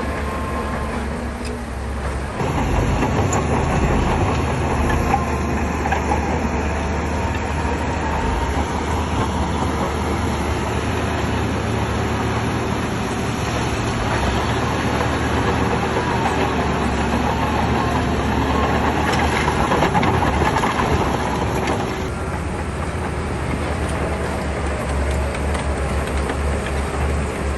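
Shantui crawler bulldozer working: its diesel engine runs steadily under load while the steel tracks clank and squeal. It gets louder a couple of seconds in and drops back a little near the end.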